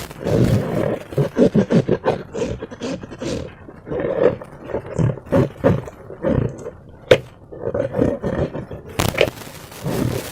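Slime being squished and worked by hand: a dense run of irregular wet squelches, with one sharp click about seven seconds in and a hiss near the end.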